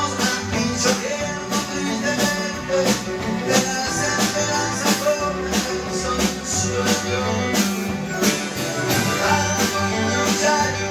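Band music with a steady beat: bass notes under a melody, with a percussion strike about every two-thirds of a second.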